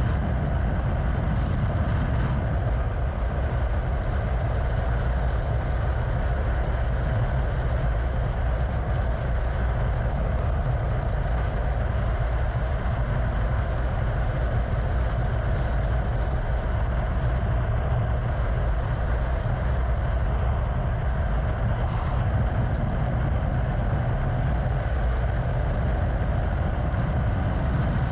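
Vehicle at a steady cruising speed: a constant drone of engine and wind rush, with no revving or gear changes.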